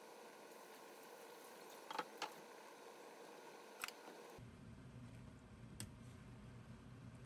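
Near silence with faint room hiss, broken by a few short, light clicks: two close together about two seconds in, one near four seconds, and one more near six seconds.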